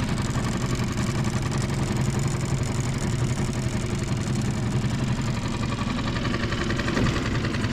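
Small outboard motor on a boat running steadily at low speed.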